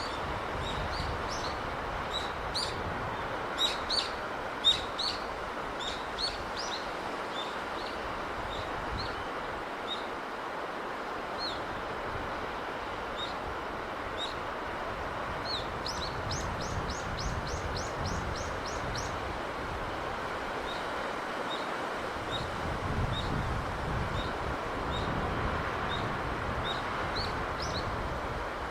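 Small birds chirping over a steady wash of sea breeze. A few louder chirps come about four seconds in, and a quick run of about a dozen high chirps comes midway.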